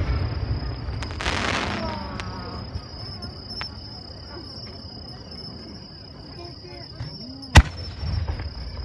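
Aerial fireworks: the rumbling echo of a burst fading away, a crackling shower about a second and a half in, and a single sharp bang about seven and a half seconds in, followed by a short rumble. A steady high insect trill sounds underneath.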